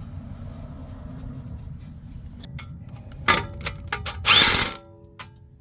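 A power tool runs in two short bursts during reassembly of a car's front brake and hub: a brief one just past three seconds in and a louder, half-second one about four seconds in. Each is followed by a short metallic ringing, over a steady low rumble.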